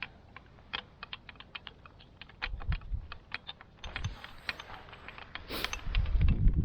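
A run of irregular small clicks and taps, several a second, from small hard objects being handled. Low rumbling gusts of wind on the microphone come in around the middle and swell near the end.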